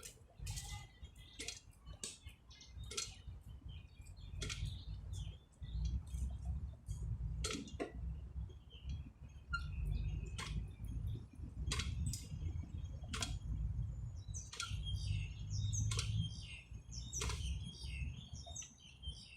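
Outdoor park exercise machine clicking in a steady rhythm, about once every second and a half, as it is worked. Birds chirp over it, mostly in the second half, with a low rumble underneath.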